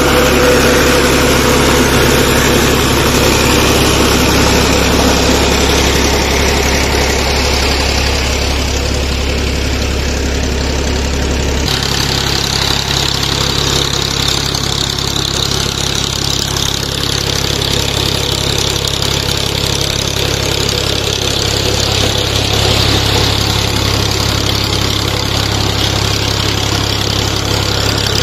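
Tractor engine running steadily while it drives a tubewell pump by a belt off its tyre. About twelve seconds in, the low engine hum shifts abruptly to a higher note.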